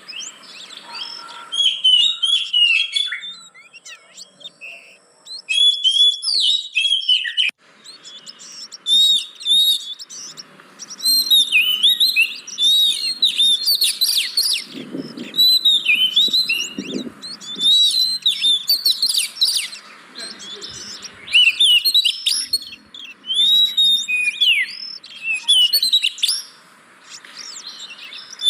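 Oriental magpie-robin singing: bursts of rapid, varied whistles and chattering notes, broken by short pauses.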